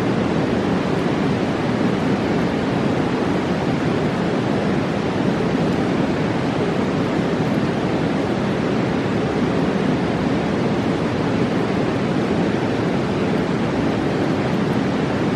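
Roaring mountain river: fast water rushing in a loud, steady, unbroken wash.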